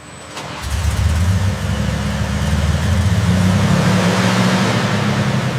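Dodge WC54 ambulance engine starting about half a second in and settling into a steady run.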